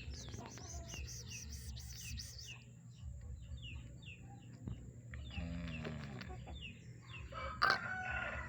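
Small birds chirping: a fast run of quick, high, descending chirps that thins out after about two and a half seconds. A louder, lower call comes near the end.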